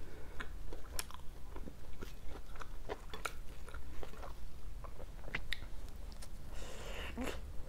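Close-miked chewing of pizza: many short wet mouth clicks and soft crunches of crust, with a longer noisy bite into the slice near the end.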